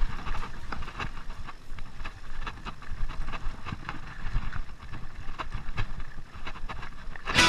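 Wind rumbling on the microphone, with irregular clicks and knocks. Music starts abruptly near the end.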